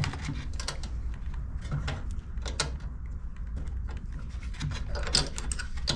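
Metal hand tools clicking and clanking irregularly against a small two-stroke generator's carburetor mounting stud as it is worked to loosen it, over a steady low hum.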